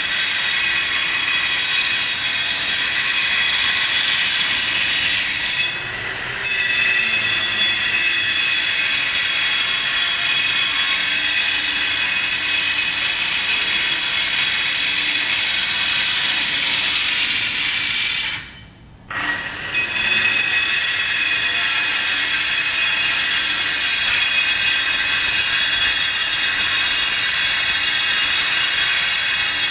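Power tool grinding stone, a loud high-pitched whine over hiss. It dips briefly about six seconds in, cuts out for about a second around two-thirds of the way through, then runs again.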